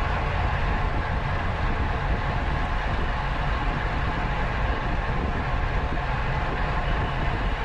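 Steady wind rush and low rumble on the microphone of a camera riding on a racing bicycle at speed.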